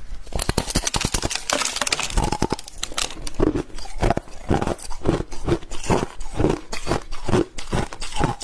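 Crushed ice being bitten and chewed close to the microphone: a dense burst of crackling crunches at first, then steady chewing at about two crunches a second.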